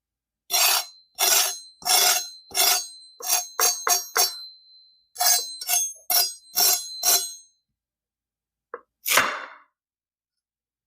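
Crisp tahdig crust crunching: about a dozen sharp crackly crunches, one or two a second, then a pause and one more crunch near the end.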